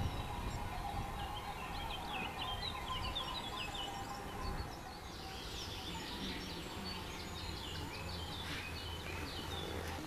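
Birds chirping and singing in many short, quick notes over a steady background of outdoor noise.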